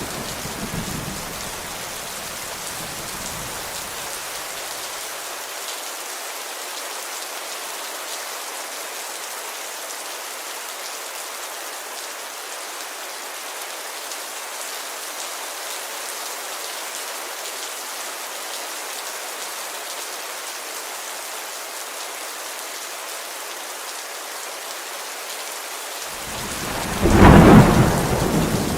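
Steady rain falling on a window, with thunder: a low rumble dies away over the first few seconds, and a louder peal of thunder comes near the end.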